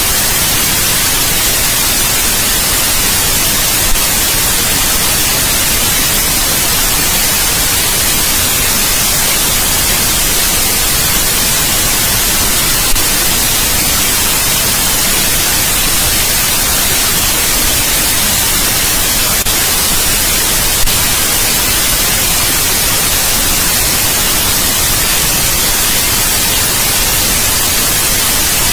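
Steady, loud white noise: an even hiss across the whole range, strongest in the treble. Three tiny clicks show through it, about 4, 13 and 21 seconds in.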